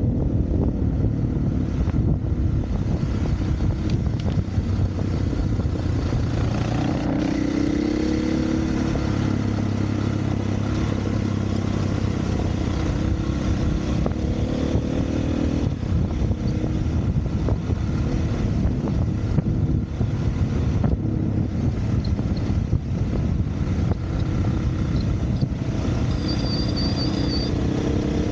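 Single-cylinder four-stroke dirt bike engine running along a trail, its pitch rising and falling repeatedly as the throttle is opened and closed.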